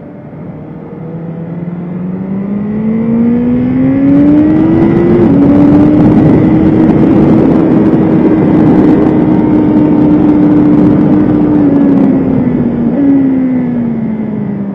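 BMW S1000RR inline-four engine accelerating hard, its pitch climbing to an upshift about five seconds in, then holding high revs at full loudness. Near the end it eases off, with a quick rise in revs from a downshift as it slows.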